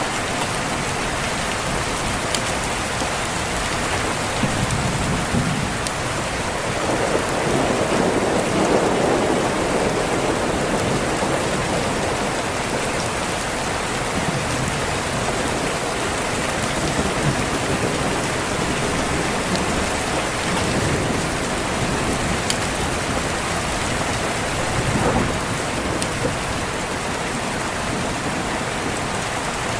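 Steady rain falling on a window, with a low rumble of thunder swelling up about seven seconds in and fading over a few seconds.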